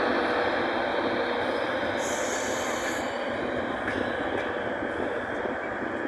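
Train running past on the tracks: a steady rumble of wheels and motors that slowly fades, with a brief high hiss about two seconds in.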